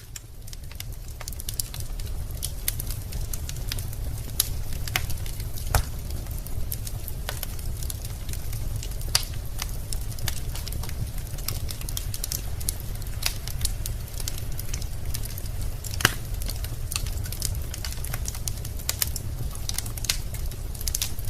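Wood fire burning in a fireplace: a steady low rumble of the flames with frequent irregular crackles and sharp pops from the burning logs. The sound fades in over the first second or so.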